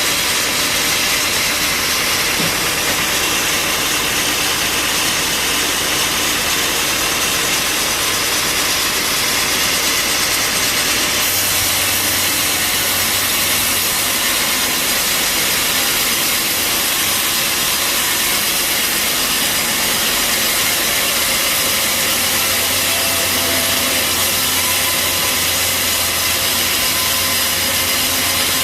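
Bandsaw sawmill running steadily, its blade cutting through a large mahogany log, with a low hum coming in about eleven seconds in and again near the end.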